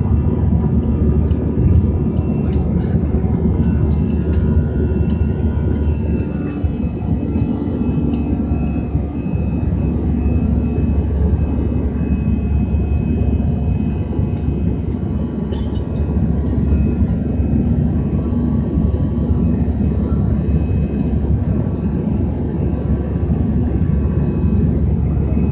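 Jet airliner engines running at high power during take-off and climb: a steady low rumble with several steady high whining tones over it.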